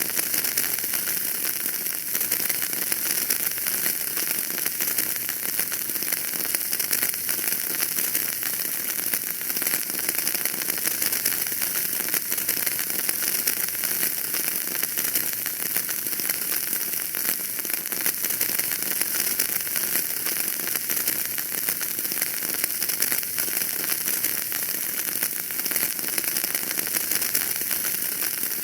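Wood fire burning in a fireplace, a steady dense crackle of small pops and ticks over a constant hiss.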